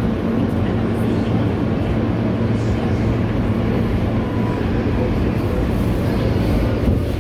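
Inside an R160 subway car on the move: the steady running noise of wheels on rails, with a constant low hum.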